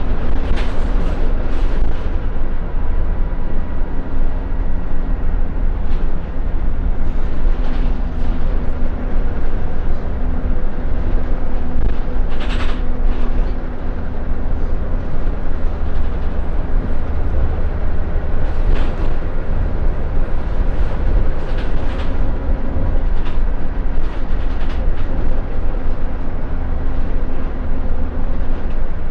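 Scania L94UB Wright Solar single-deck bus under way, heard from inside the cabin: a steady deep engine and road rumble, its engine note shifting in pitch as the bus changes speed, with scattered rattles and knocks from the body, the loudest about twelve seconds in.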